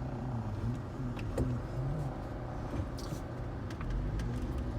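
Low, steady engine drone with a slowly wavering pitch, and a few faint clicks.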